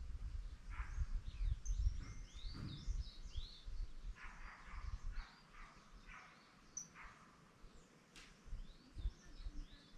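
Birds chirping with many short, quick calls scattered throughout, over a low rumble that fades out about halfway through.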